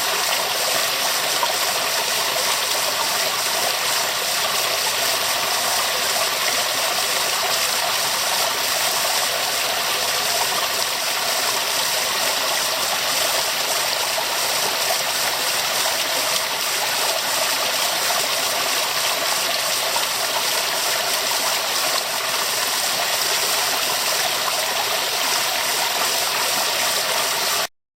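Steady rush of a waterfall, an even hiss with most of its weight in the upper range and no change in level. It cuts off abruptly just before the end.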